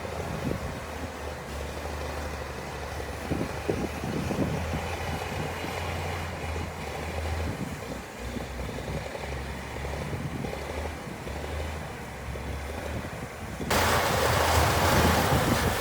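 Diesel engine of heavy earthmoving machinery running steadily at low speed, with a few scattered knocks. Near the end the sound jumps abruptly louder and harsher.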